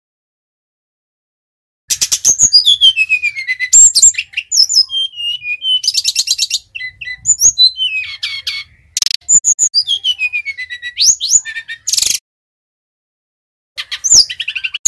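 Sikatan rimba dada coklat (brown-chested jungle flycatcher) singing a fast, varied song of chirps, trills and downward-sliding whistles. It starts about two seconds in, pauses briefly near the end, then breaks into a rapid trill.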